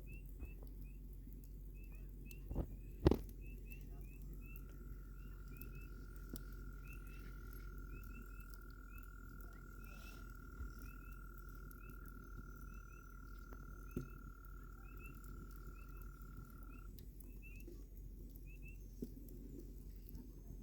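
Campfire crackling softly, with two sharp pops about three seconds in and a few fainter snaps later. Short chirps repeat throughout, and a long steady trill starts about four seconds in and stops about seventeen seconds in.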